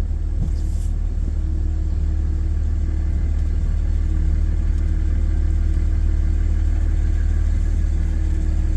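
Truck engine and tyre rumble heard from inside the cab while driving slowly: a steady low drone with a faint constant hum, growing slightly louder toward the end.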